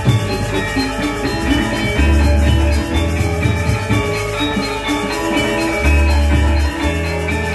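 Balinese gamelan playing: bronze metallophones ringing a dense interlocking melody over drums, with deep low gong tones sounding about two seconds in and again near six seconds.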